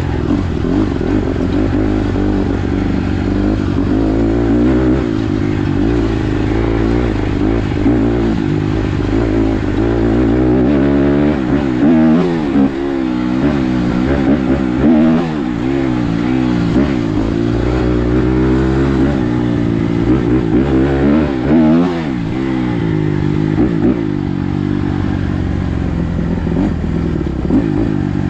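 Dirt bike engine running under way, its revs rising and falling over and over as the throttle is worked. The changes come thickest in the middle stretch.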